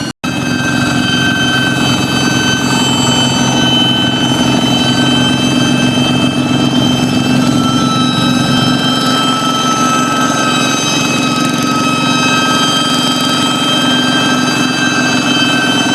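Kubota-engined hand tractor running steadily with a high, whistling jet-like engine note over a lower drone. The sound cuts out for a split second just after the start, then carries on with little change.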